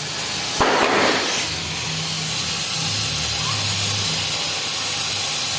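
A firework set at a bonfire hissing steadily as it burns, after a sharp pop about half a second in.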